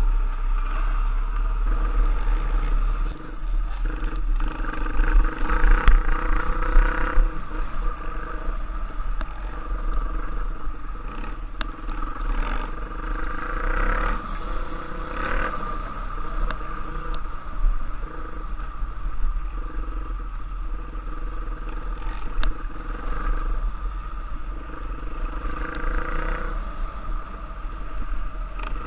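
Off-road trail motorcycle engine running as the bike is ridden, its loudness rising and falling with the throttle, over a constant low rumble.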